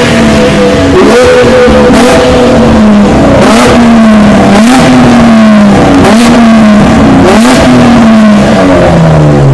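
Modified car engine, good for almost 400 horsepower, revved hard in repeated blips about once a second. Each rev rises quickly and falls back, several of them with a sharp crack, and the engine drops back toward idle near the end.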